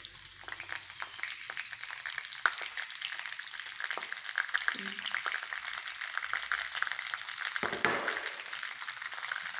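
Calendula petals frying in hot melted pork lard in a frying pan: a steady sizzle full of dense crackling pops.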